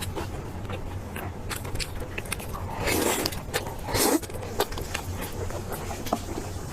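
Close-miked chewing of meat, with a string of small wet mouth clicks. Two louder, longer bites or smacks come about three and four seconds in.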